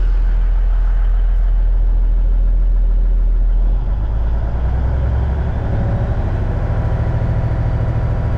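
Diesel engine of a 1989 Kenworth K100E cabover truck idling with a deep, steady rumble. About four seconds in, the engine speed rises and holds at a higher, faster-pulsing note.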